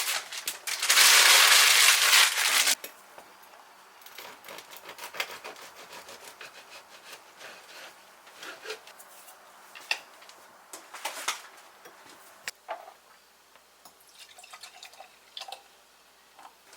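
Water running loudly for about three seconds, then stopping, followed by scattered drips and small clicks.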